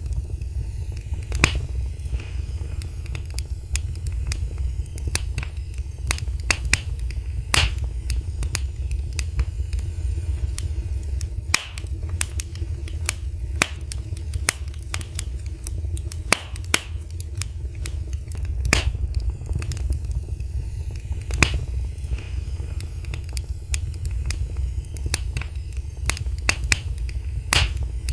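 Wood fire in a fireplace crackling: irregular sharp pops and snaps several times a second over a steady low rumble of the flames.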